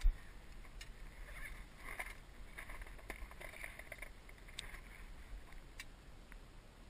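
A low thump at the start, then scattered light clicks and knocks over a soft hiss: fishing gear being handled on a small fibreglass boat.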